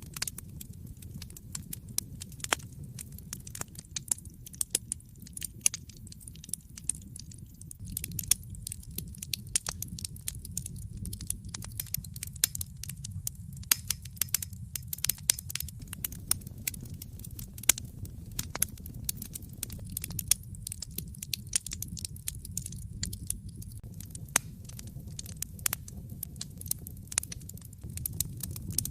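Wood fire crackling in a fireplace: frequent sharp pops and snaps, irregular in size and spacing, over a steady low rumble.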